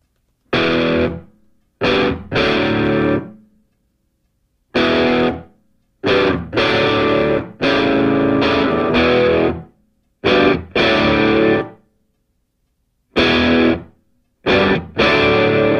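Music: distorted electric guitar playing a stop-start riff of loud chords, each cut off into silence before the next.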